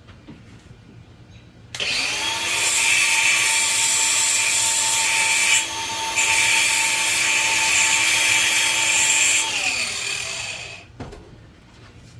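Electric wire wheel spinning up, a bolt's threads held against the wire brush to clean them, with a brief break in the brushing about halfway, then the motor winding down. The bolt had been binding as it went in.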